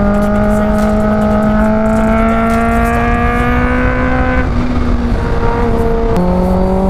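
Kawasaki Ninja H2's supercharged inline-four engine pulling hard under throttle, its pitch rising steadily for about four and a half seconds. The pitch then drops suddenly, as at a gear change, and shifts again about six seconds in.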